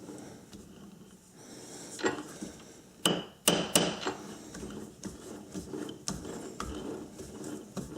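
Sharp metal knocks and clanks, a cluster of them about two to four seconds in, then lighter ticks and scraping: a lathe's four-jaw chuck being adjusted jaw by jaw with the chuck key while a workpiece is dialed in to run true.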